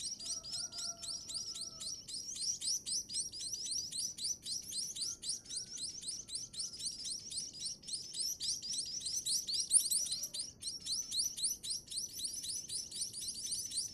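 Munia chicks giving begging calls while being fed: a rapid, continuous string of high, thin chirps, several a second.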